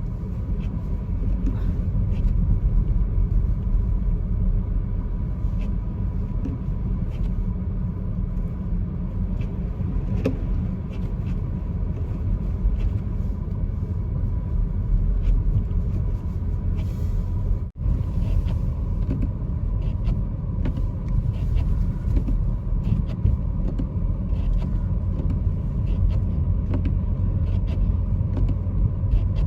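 Inside a moving car's cabin: steady low road and engine rumble with the heater fan blowing at full speed, plus a faint steady high tone. The sound briefly cuts out about 18 seconds in.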